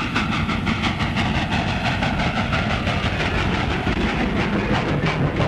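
A train running at speed on the rails, a quick, even rhythmic clatter, heard as an old film's soundtrack.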